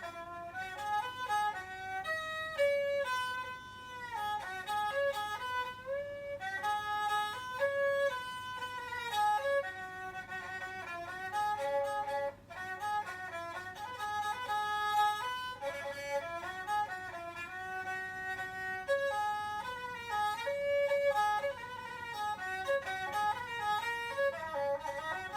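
Solo bowed fiddle playing an old Thai melody, one line of notes with many slides between them.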